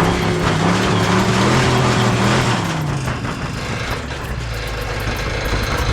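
A motor vehicle's engine revving, its pitch rising and falling several times, then running lower and steadier.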